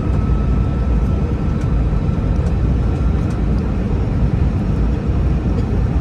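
Steady in-flight cabin noise inside an Airbus A321-211 airliner: a deep, even rumble of engines and airflow. A faint thin whine fades out about halfway through.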